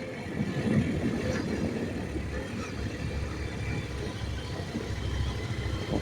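Motorcycle engine running with a steady, uneven low rumble.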